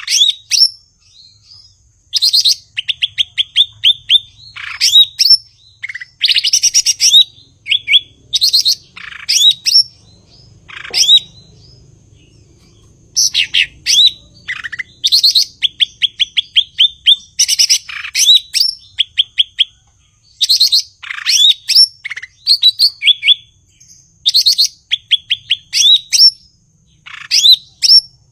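Cucak ijo (green leafbird) singing: loud, varied phrases of rapid trilled notes, sharp rising whistles and high chattering notes, repeated every second or two with short pauses between them.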